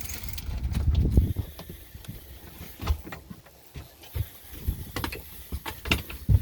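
A freshly caught bonito thrashing, giving irregular thumps and knocks, with a run of heavy low thuds about a second in and sharp single knocks later. It sounds like a washing machine.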